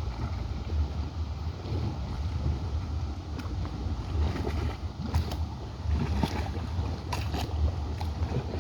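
Wind buffeting the microphone outdoors on a coast: a low, gusting rumble, with a few faint clicks scattered through it.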